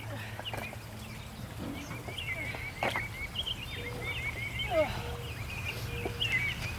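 Small birds chirping in quick twittering runs over a steady low hum.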